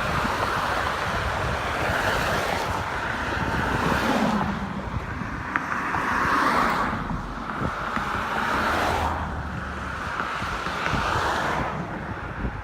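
Wind buffeting the microphone as a low rumble, over a rushing noise that swells and fades about four times.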